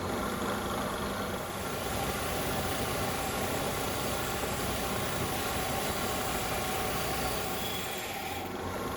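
A small electric power tool running steadily: a motor hum with a few steady tones under a dense, even hiss.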